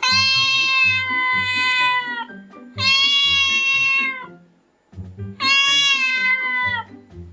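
Cat meowing three times in long, drawn-out calls, each about two seconds and held at a steady pitch that dips slightly at the end, over background music with a steady beat.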